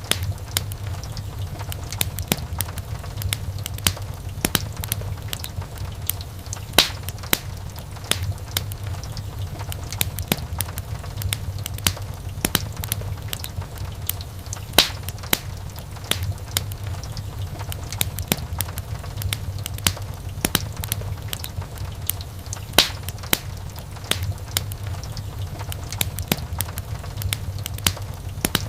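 Wood fire burning in a fireplace: a steady low rumble of the flames with irregular sharp crackles and snaps from the burning logs, a few of them much louder pops.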